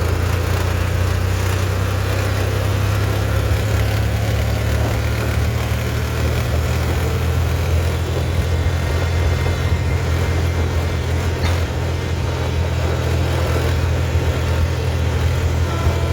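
Tractor diesel engine running steadily with a deep, even drone.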